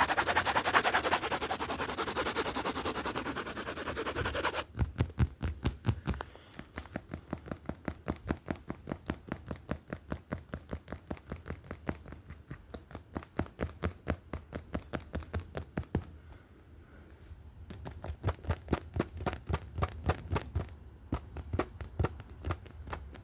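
Wooden bat being tapped in a fast, steady rhythm, several sharp taps a second, after a few seconds of a dense, rapid scratching. The tapping stops briefly about two-thirds of the way through, then resumes.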